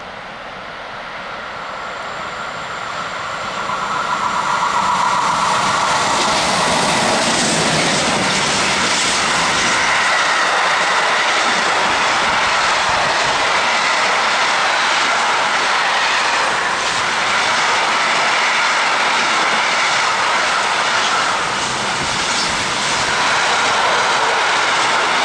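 ÖBB Class 1044 electric locomotive approaching and passing with an intermodal freight train, then the wagons rolling by with a steady clatter of wheels over the rails. The sound builds over the first few seconds, then stays loud and even as the train runs past.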